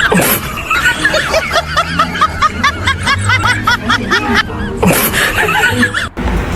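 A parrot laughing: a run of quick, rising-and-falling chirps, about three or four a second, with a short break partway through, cut off abruptly near the end.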